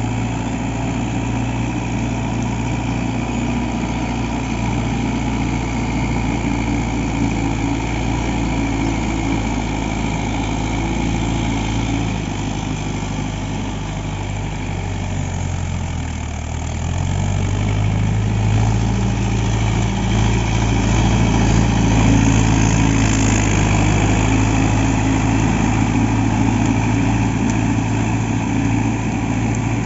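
Mahindra Yuvo Tech+ 575 DI tractor's diesel engine running steadily while driving a rotavator. About halfway through, the engine note drops lower for a couple of seconds, then picks back up and runs louder.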